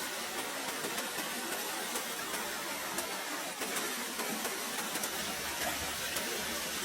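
Steady hiss with scattered small crackles from food cooking over an open fire.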